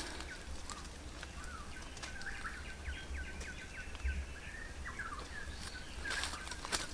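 A bird calling a quick run of short, high chirps for a few seconds in the middle, over a steady low background hum. Footsteps crunch on dry leaves near the end.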